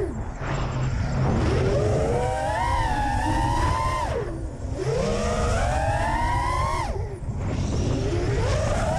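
A 5-inch FPV quadcopter's brushless motors and propellers (T-Motor F40 Pro II 2400kv, T5143 props) whining as the throttle is worked. The pitch climbs, then drops steeply as the throttle is chopped: right at the start, about four seconds in and again about seven seconds in. A steady low rumble runs underneath.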